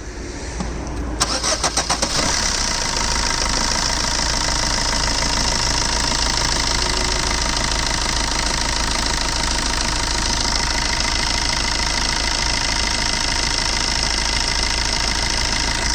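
Maruti Suzuki Swift VDi's 1.3-litre four-cylinder diesel engine cranking and catching about a second in, then settling into a steady idle.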